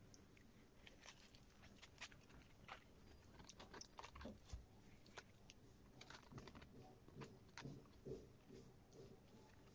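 Faint, close-up chewing and biting of fried chicken and rice, with small irregular clicks and crunches throughout.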